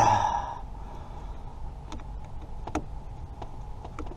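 A short breathy exhale, then a few faint, sharp clicks spaced out over the next few seconds.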